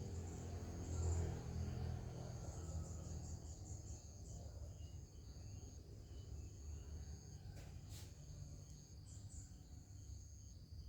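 Insects chirring in a steady high-pitched trill over a low rumble, with a single sharp click about eight seconds in.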